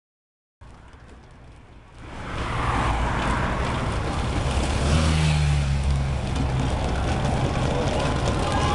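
Motor-vehicle engines running close by on the race road, growing much louder about two seconds in, then a steady low hum under a broad rush of noise.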